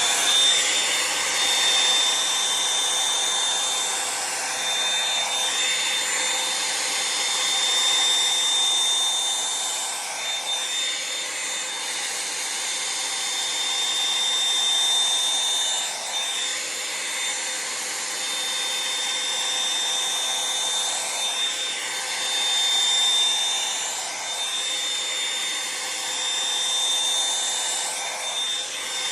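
Revlon One-Step hot-air brush running steadily on a setting: a rush of blown air with a high motor whine. The sound of the air shifts every few seconds as the brush is drawn through the hair.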